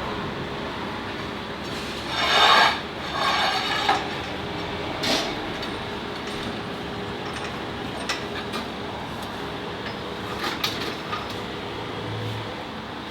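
Workshop sounds of work starting on a car: a steady background hiss with two short loud bursts of a tool about two and three seconds in, then a few sharp metallic clicks.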